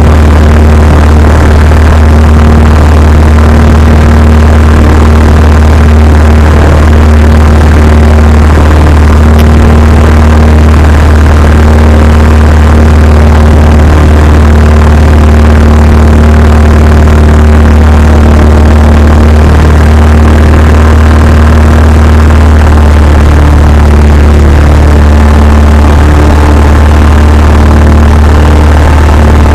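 Cessna 172's piston engine and propeller running at a steady, unchanging speed: a loud, even drone.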